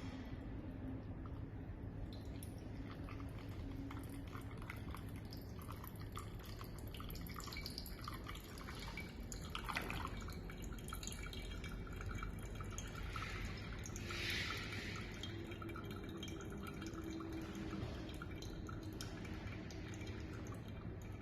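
Coffee dripping steadily during manual brewing on a scale, with a brief louder rush of liquid about two-thirds of the way through.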